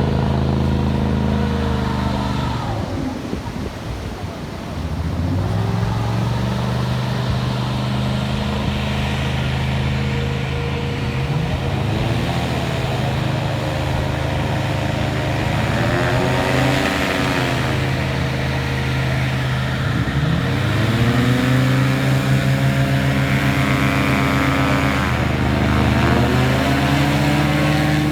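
A boat's engine running, its pitch rising and falling several times as it is throttled up and back.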